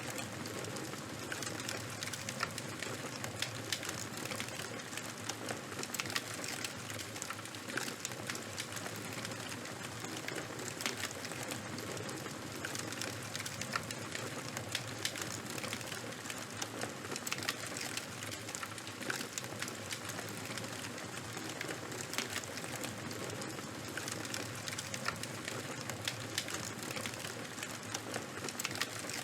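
Charcoal and wood fire crackling: a steady hiss with frequent sharp pops and snaps scattered irregularly throughout.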